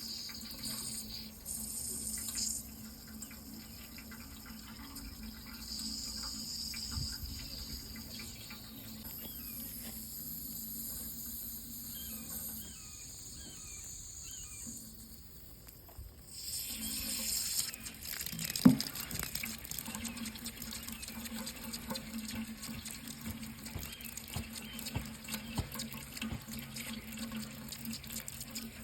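Tap water running steadily into a sink, with a low hum under it. The flow briefly drops away about sixteen seconds in, and a single sharp knock comes a couple of seconds later.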